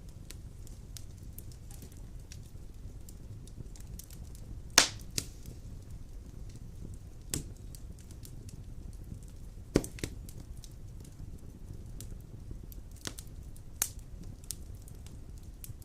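Large logs burning in a fireplace: a steady low rumble of flames with frequent small crackles and a few sharp pops, the loudest about five seconds in and another near ten seconds.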